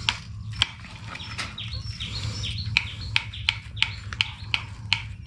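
Birds chirping, with a run of sharp clicks about two or three a second and a steady low hum underneath.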